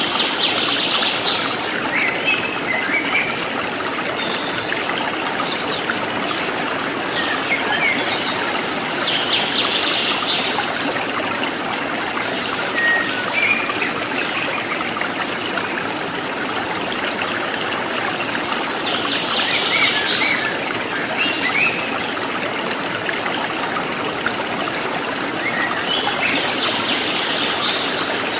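Forest stream trickling and splashing steadily, with wild birds calling over it. Short bursts of bird calls come about every eight to ten seconds: at the start, around nine seconds in, around nineteen seconds in and near the end, with scattered single chirps between.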